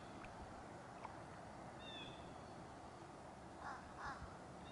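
A bird calling faintly in short, high, falling chirps, one every two to three seconds, with a pair of lower calls near the end, over a soft steady hiss of morning outdoor quiet.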